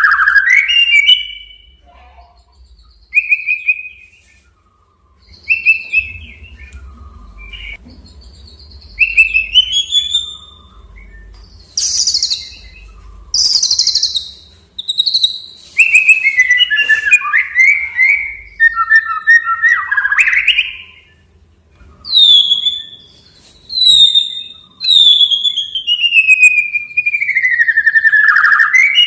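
Male white-rumped shama (murai batu) singing a loud challenging song: a string of clear whistled phrases, some rising and some falling, separated by short pauses. Near the end comes one long whistle that glides down in pitch.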